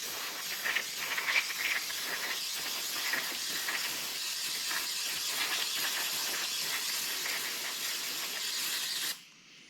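Aerosol spray can giving one long continuous spray onto a hydraulic cylinder's collar to clean it, hissing with a faint spatter, then cutting off suddenly about nine seconds in.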